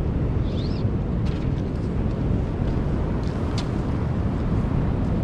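Steady low rumble of wind and waves buffeting the microphone, with a couple of faint high chirps about half a second in.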